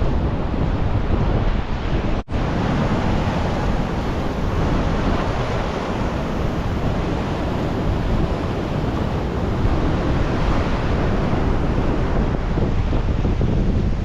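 Ocean surf breaking and washing on a sandy beach, a steady rush of waves, with wind buffeting the microphone.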